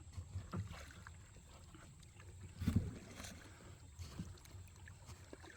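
Kayak paddling: the paddle dipping and splashing in the creek, with a few knocks against the kayak, the loudest about two and a half seconds in.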